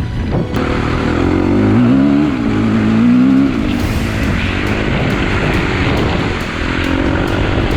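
KTM EXC-F four-stroke single-cylinder dirt bike engine running under throttle, its pitch rising and falling about two to three seconds in, with a steady rushing noise over it.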